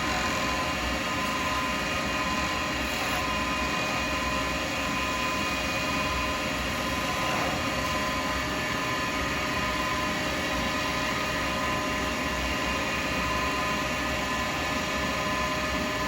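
Wood lathe running steadily with a pen blank spinning: an even machine hum with several held tones and no sharp cutting noises.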